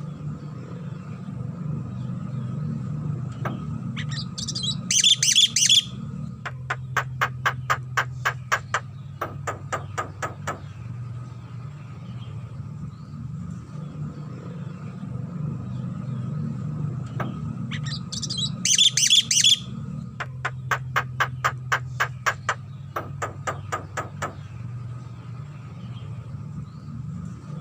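Javan myna calling twice: each time a loud, harsh, high chattering burst, followed by a run of sharp clicking notes at about five a second, over a steady low hum.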